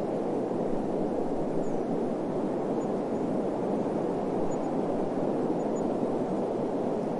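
Steady desert wind: an even, unbroken rushing hiss, low and full, without gusts.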